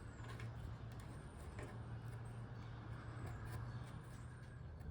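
Quiet background: a faint steady low hum with a few faint high chirps.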